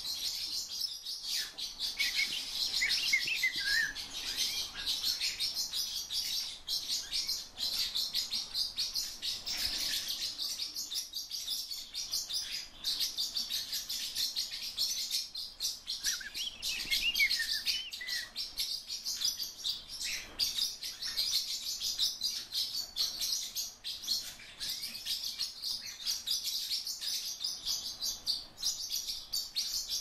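Birds twittering and chirping continuously in a dense, rapid, high-pitched chorus, with a few clearer sliding calls a few seconds in and again about midway.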